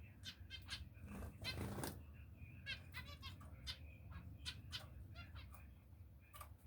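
Pet finches chirping with short, high calls and a quick run of repeated notes about three seconds in. A brief rustling noise, the loudest sound, comes about a second in.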